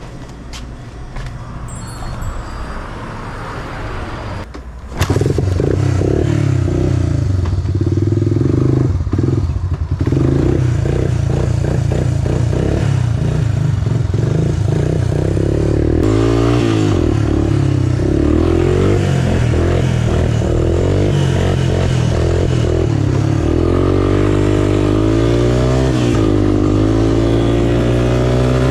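Small single-cylinder off-road engine (a three-wheeler or dirt bike) running while being ridden, its pitch rising and falling as the throttle changes. It becomes much louder about five seconds in.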